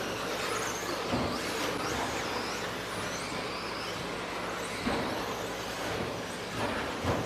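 Electric RC stadium trucks with 13.5-turn brushless motors racing: high motor whines rise and fall as the trucks accelerate and brake, over a steady noise, with a few short thumps.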